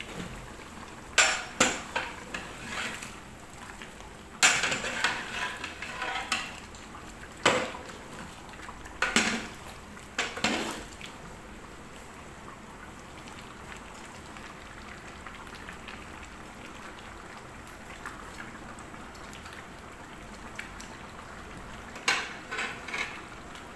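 Metal utensil clanking and scraping against a large cooking pot in several short bursts of clatter, with long pauses between, over a steady low hiss from the pot.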